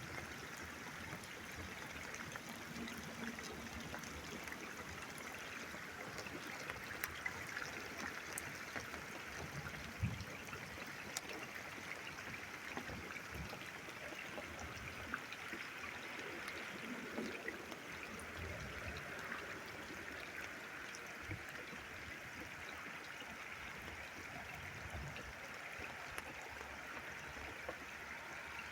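Steady rain falling, an even hiss with scattered sharper drops ticking close by, a few of them louder.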